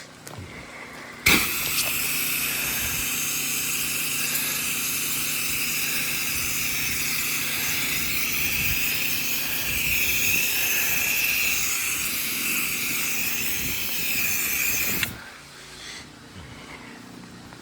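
Soft-wash spray hissing with a steady high whistle for about fourteen seconds as chlorine wash solution is sprayed, starting about a second in and cutting off sharply near the end. A low steady hum runs underneath.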